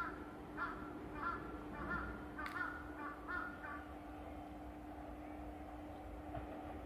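A bird calling, a run of about six short repeated calls over the first four seconds, over a faint steady hum.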